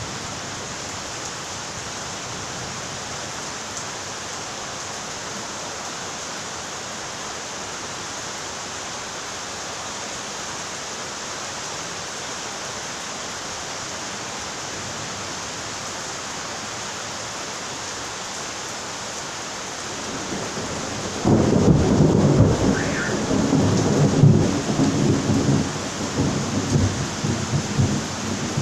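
Steady rain falling, joined about two-thirds of the way through by a long, loud rumble of thunder that swells unevenly.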